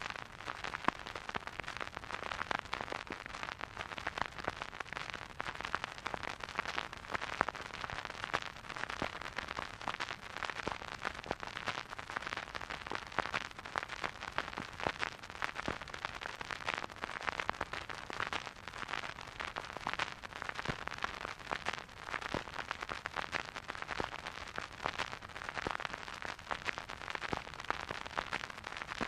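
Vinyl record surface noise from a spinning turntable: a steady soft hiss with dense, continuous crackling and popping from the stylus riding the groove, with no music.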